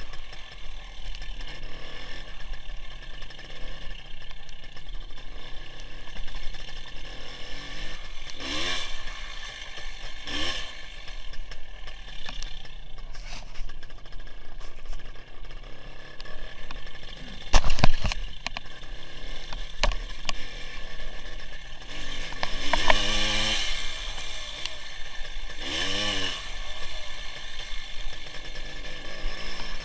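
WSK 175 motorcycle's single-cylinder two-stroke engine running under way, its pitch rising and falling several times. A sharp, loud knock sounds a little past halfway.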